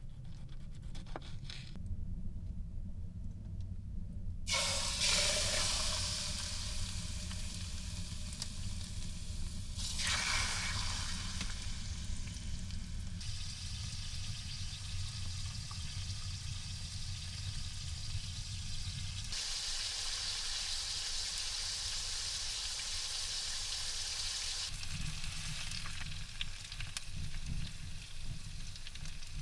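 Food sizzling as it fries in a pan, over a steady low rumble. The sizzle starts about four and a half seconds in and jumps in level several times.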